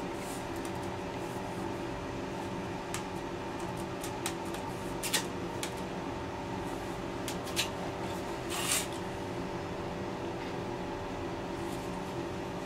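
Short clicks and a scrape of PVC drain pipe and fittings being handled and fitted together, over a steady machine hum.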